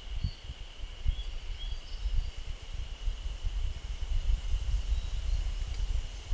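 Forest ambience: a steady high insect trill with a few short bird chirps, over gusty low wind rumble on the microphone.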